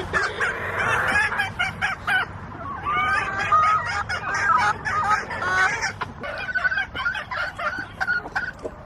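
Chickens clucking in a busy, continuous run of short calls while they are hand-fed scraps.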